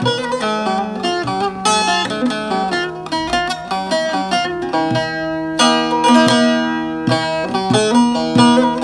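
Bağlama (Turkish long-necked saz) playing a folk melody in quick plucked notes, with a fuller strummed strike about five and a half seconds in.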